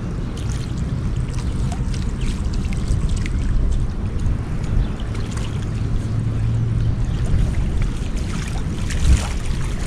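Wind rumbling on the microphone over the sound of the shore, with scattered small splashes and drips of water and a low steady hum for a couple of seconds midway.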